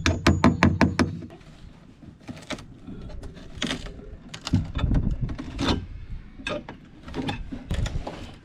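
A wrench ratcheting in a fast, even run of clicks, about seven a second, for the first second, then scattered metallic knocks and clicks as the corroded deck fitting's bolts are worked loose.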